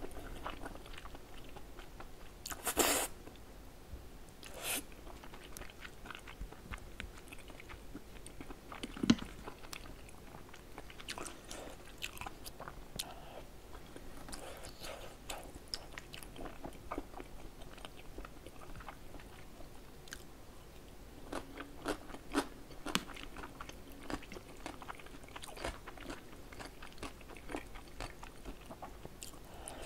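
Close-miked eating of cheese-topped tteokbokki: soft, wet chewing of chewy rice cakes and fish cake in stretchy melted cheese, with many small mouth clicks. A louder bite comes about three seconds in, and a sharp click about nine seconds in is the loudest sound.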